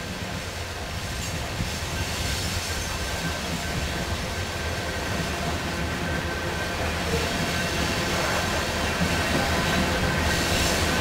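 Freight train passing, led by two BNSF diesel-electric locomotives with coal hopper cars behind: steady engine rumble and wheels on the rails, growing gradually louder as the train approaches.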